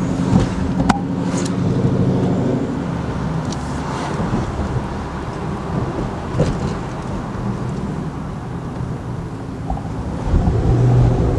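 Dodge Challenger's V8 engine running while driving, heard from inside the cabin as a steady low engine note with road noise. It grows louder near the end.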